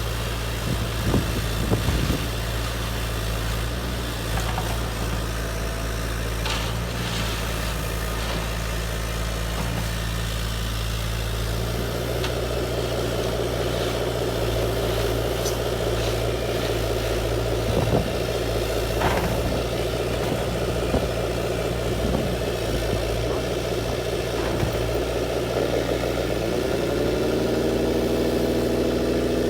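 Radio-controlled construction model machinery running steadily with a low hum. About twelve seconds in a busier whirring joins, and near the end a motor whine rises in pitch and then holds.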